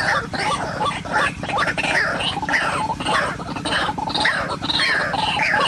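White-breasted waterhens calling: a dense, continuous run of rough, grunting croaks repeated several times a second, over a steady low hum.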